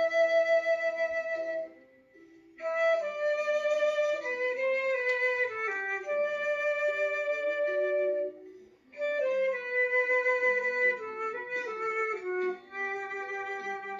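Flute playing a slow song melody in three phrases, with short breaks between them about 2 and 8.5 seconds in, over a lower chordal accompaniment.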